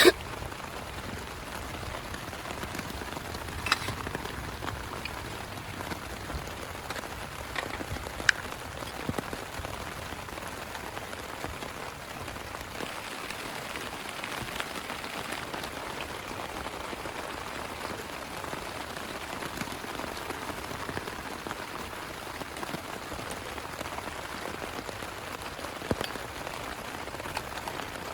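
Heavy rain falling steadily on a plastic tarp, a continuous patter with a few louder single drop hits.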